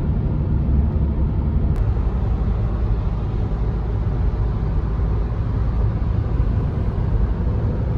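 Steady low rumble of road and engine noise inside a moving car, with one faint tick about two seconds in.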